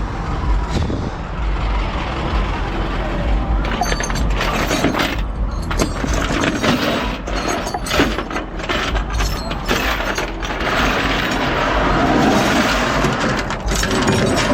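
A vehicle running with a steady low rumble, with scattered clanks and rattles from about four seconds in.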